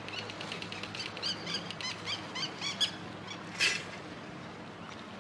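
A small bird chirping: a quick run of a dozen or so short, rising-and-falling chirps, about five a second, then one louder harsh call about three and a half seconds in, over a faint steady low hum.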